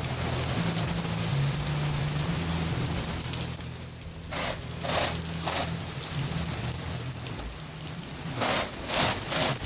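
Heavy rain pouring down in a steady hiss, with short louder surges several times in the second half.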